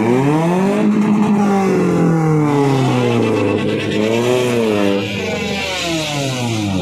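A vehicle engine being revved, its pitch rising and falling several times.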